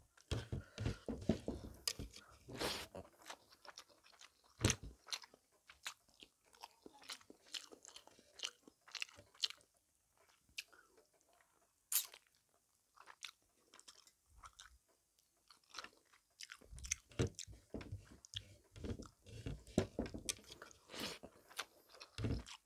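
Close-up eating sounds: a person chewing and biting a mouthful of fish and rice eaten by hand, with clusters of sharp, crackly clicks. The clicks come thickly in the first few seconds and again in the last several, with scattered single clicks in between.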